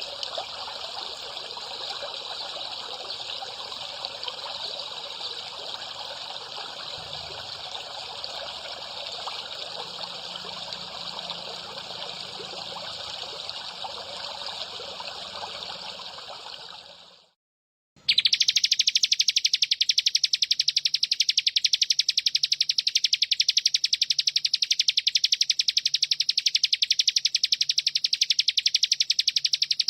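Recorded trickling water that fades out about two-thirds of the way in. After a second of silence comes a loud, steady, very rapidly pulsing high buzz, held unbroken, typical of the bren cicada call used in songbird training recordings.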